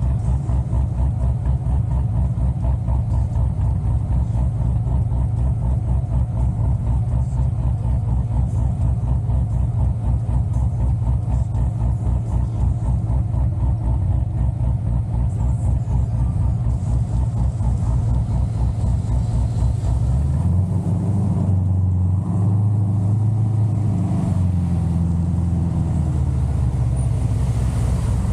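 Chevrolet Corvette C6 Z06's 7.0-litre LS7 V8 with a big aftermarket cam, running with a choppy, lumpy beat. About twenty seconds in it pulls harder for several seconds, rising and falling in pitch, then settles back into the lopey beat.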